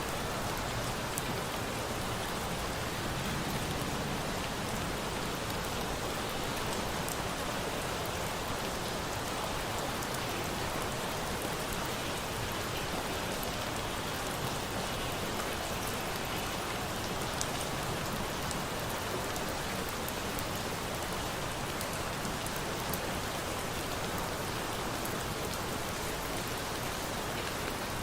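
Steady rain pattering, mixed with a campfire that gives the odd faint crackle.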